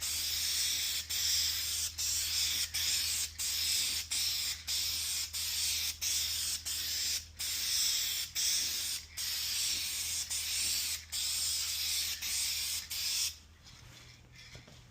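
Aerosol spray-paint can spraying in a steady hiss, broken by brief gaps about every two-thirds of a second, stopping near the end.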